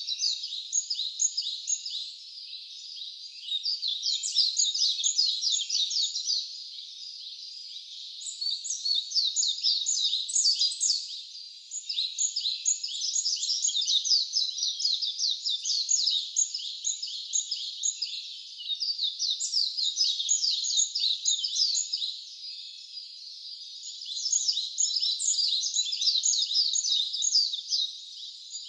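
Songbirds singing rapid, chirping trilled phrases, each bout lasting a few seconds with short pauses between.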